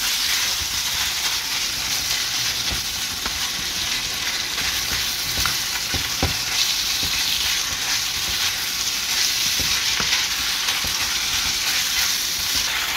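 Ground pork, onion and shrimp paste sautéing and sizzling in a nonstick pan while a wooden spoon stirs and scrapes through the mixture, with scattered light ticks of the spoon against the pan.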